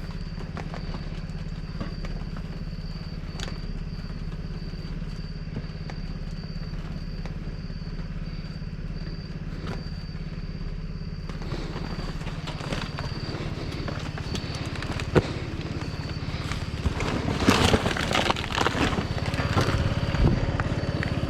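A vehicle engine idling steadily with a low hum. From about two-thirds of the way in, loud irregular rustling and clattering from objects being handled join it.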